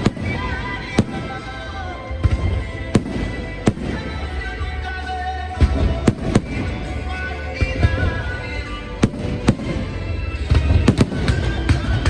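Fireworks going off in irregular sharp bangs, about a dozen, with music playing under them.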